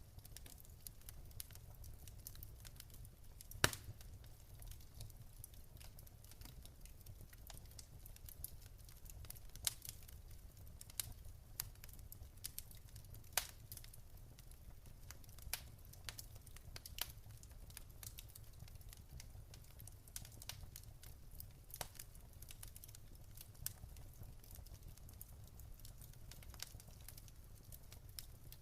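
Wood fire crackling in a fireplace: scattered sharp pops and snaps over a steady low rumble, with one louder pop about three and a half seconds in.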